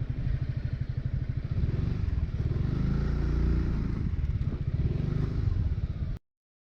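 Honda ADV350 scooter's single-cylinder four-stroke engine running with a low, even pulse. The sound cuts off suddenly about six seconds in.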